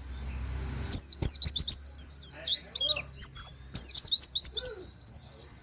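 Pleci (white-eye) singing: a held high thin note for about a second, then a fast run of high chirps and quick falling whistles, the "wit wit" and canary-like song used to tutor other birds.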